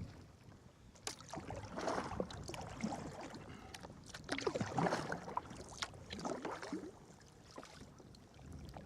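Sea kayak paddle strokes: the blades splashing in and out of the water in a few uneven surges, with drips and small sharp clicks in between.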